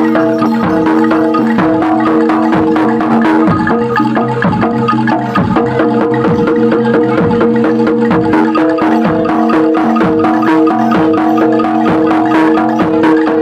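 Javanese gamelan ensemble playing: rapid, dense strokes on bronze metallophones over ringing sustained tones, steady and loud throughout.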